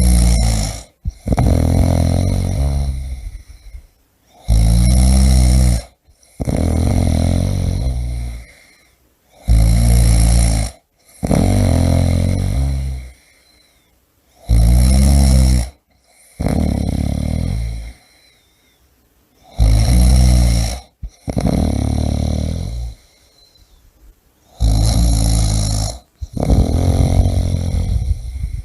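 A person snoring loudly in a steady rhythm. The snores come in pairs about every five seconds: a shorter stroke, then a longer one that fades away, with brief silences between.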